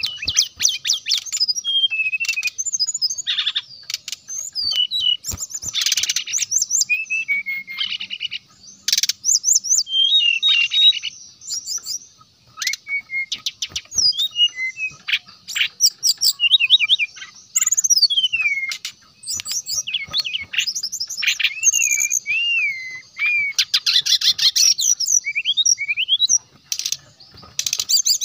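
Brown-chested jungle flycatcher singing: rapid chattering trills mixed with quick whistled notes that slide up and down, in phrases with short pauses between them.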